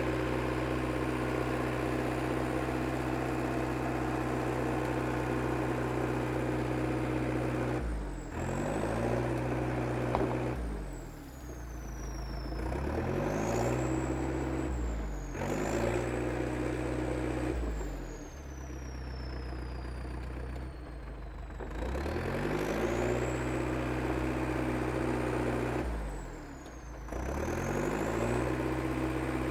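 IH TD8E crawler bulldozer's diesel engine running under load, its note sagging and recovering about seven times as it works, with a high whine that falls and rises along with it.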